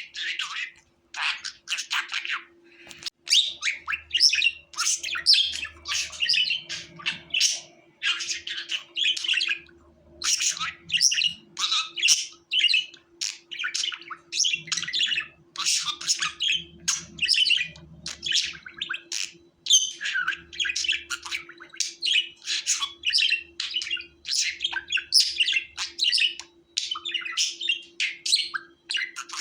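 Budgerigars chirping and chattering in quick, near-continuous runs of short high chirps and warbles.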